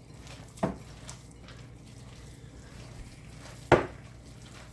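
Two sharp knocks of kitchenware set down on a counter, the second about three seconds after the first and louder, over a steady low hum.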